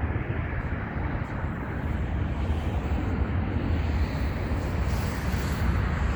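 Passenger train running with a steady low rumble.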